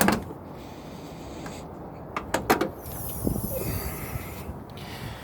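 A heavy, solid thump of a 1992 Mercedes-Benz 300GE door shutting. About two seconds later there are two sharp clicks, and then a faint hiss.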